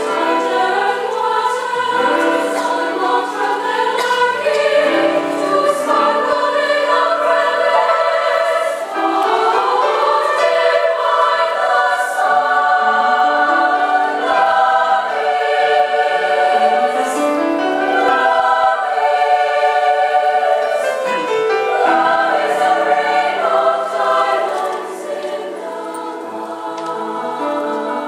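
Women's choir singing in several voice parts at once, holding sustained chords. It grows softer about twenty-five seconds in.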